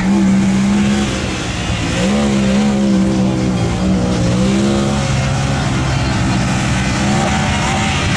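Truck engine running under throttle at a mud bog. Its note rises about two seconds in, wavers up and down for a few seconds, then holds steady.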